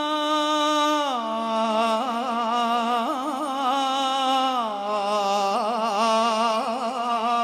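A man's solo voice singing a religious praise chant for Imam Ali without instruments, holding long wordless melismatic notes with wavering ornaments. It steps down in pitch about a second in and again about two-thirds of the way through.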